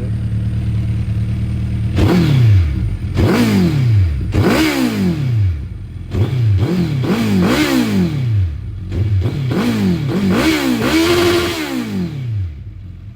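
Second-generation Suzuki Hayabusa's inline-four engine, breathing through a Yoshimura R77 exhaust with the dB killer removed, idling and then revved in a rapid series of throttle blips, each rising and falling sharply in pitch. It drops back to idle near the end. The note is very loud.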